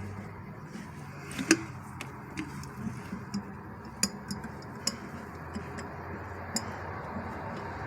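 Irregular light clicks and taps, about a dozen, one sharper than the rest about a second and a half in, over a steady low hum.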